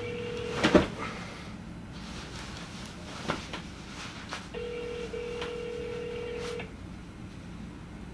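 Telephone ringback tone heard through a phone's speaker while a call rings unanswered: the end of one ring under a second in, then a second ring of about two seconds, about four seconds later. A sharp click sounds as the first ring ends, and a fainter one about three seconds in.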